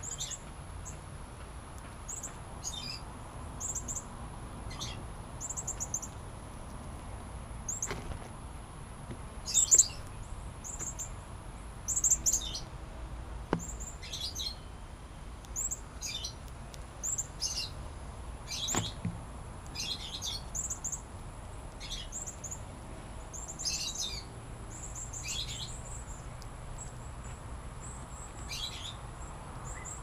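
Small songbirds chirping: many short, high, down-sweeping chips at irregular intervals, a few louder ones near the middle, with an occasional faint tick.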